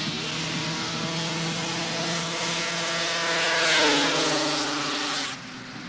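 Two-stroke racing snowmobile engine at full throttle on a grass drag run, a high buzzing whine that grows loudest near the four-second mark as its pitch sweeps down while it passes, then cuts off abruptly near the end.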